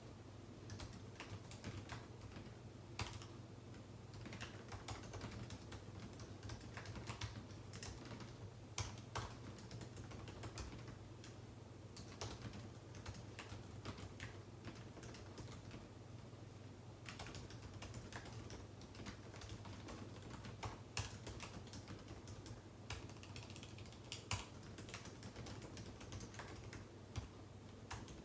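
Typing on a computer keyboard: irregular bursts of key clicks with short pauses between them, over a faint steady low hum.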